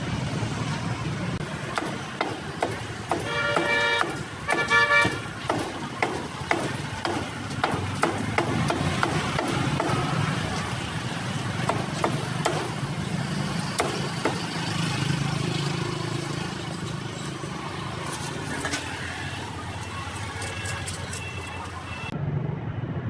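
Street traffic with passing vehicles and a horn honking twice, about three and five seconds in, over background voices and clatter.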